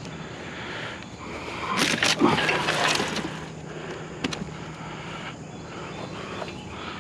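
A metal-framed door being lifted out and handled: a burst of clattering, scraping and knocks about two to three seconds in, then a single knock a little after four seconds.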